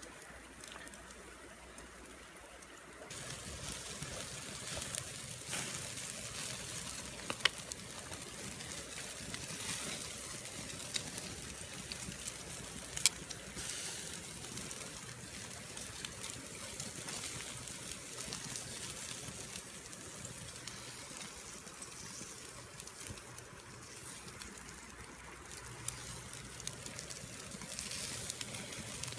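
Bacon sizzling on a grill over a wood campfire, with fine crackling. The sizzle thickens about three seconds in, and there are a couple of sharp pops.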